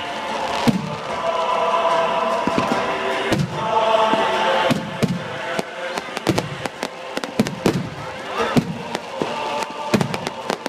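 Fireworks going off in many sharp, irregular bangs and pops, several a second at times.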